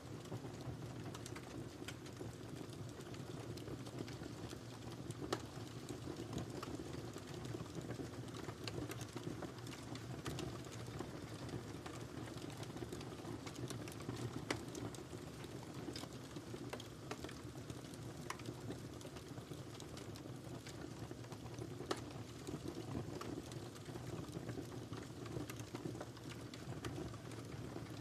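Wood fire burning in a fireplace: a steady low rush of flames with constant small crackles and occasional louder sharp pops.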